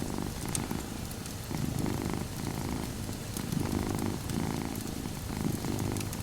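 Domestic cat purring steadily, the purr swelling and fading with each breath about once a second, with scattered small crackles and pops of a wood fire.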